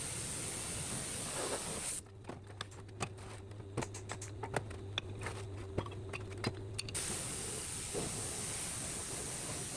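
A steady hiss that stops about two seconds in, leaving a low hum and a series of small clicks and taps for about five seconds, then starts again.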